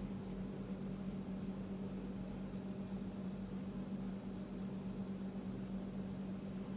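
Steady low hum with an even hiss, like a running fan or appliance; no bird calls are heard.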